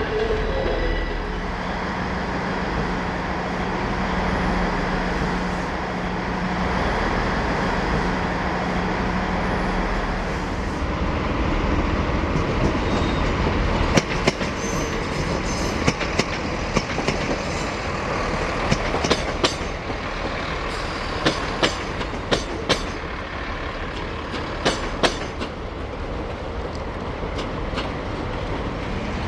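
Train running past at a station: a steady rumble with a low hum for roughly the first third, then from about halfway a run of sharp clicks and knocks.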